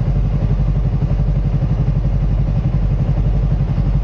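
Motorcycle engine running at a steady idle, an even rapid pulsing beat that holds constant.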